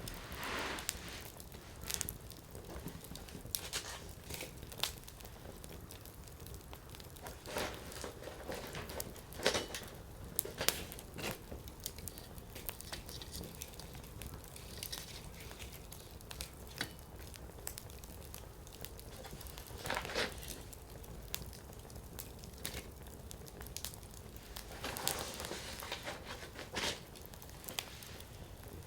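Burning firewood crackling, with irregular sharp pops scattered through, a cluster of them about ten seconds in and a louder one about twenty seconds in.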